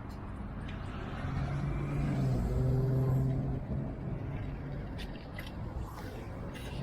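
Motor vehicle passing in road traffic: its engine hum swells, loudest about three seconds in, then fades, over a steady low traffic rumble.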